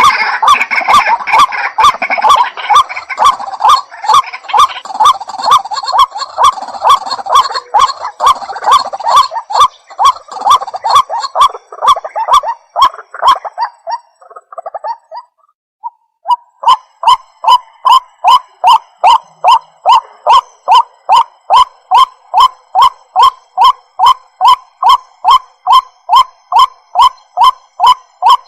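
White-breasted waterhen calling. A dense, rough run of repeated calls fades away about halfway through. After a brief pause come steady, evenly repeated single notes, about two a second.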